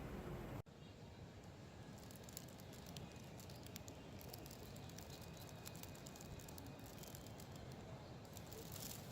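Campfire crackling faintly: irregular small pops and snaps over a low, even hiss. It starts after an abrupt cut just over half a second in.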